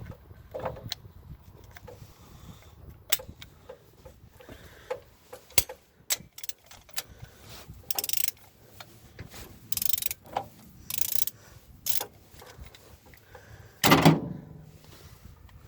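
Ratchet wrench clicking in several short spells, with scattered metallic clinks of tools and engine parts and one louder clank near the end.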